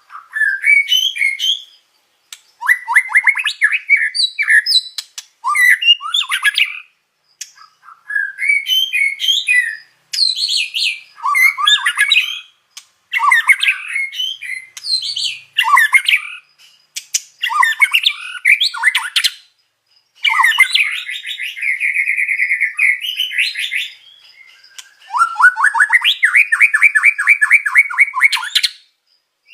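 White-rumped shama singing in a string of short, varied phrases of whistles and chattering notes with brief pauses between them. It includes two long, fast, buzzy trills in the second half.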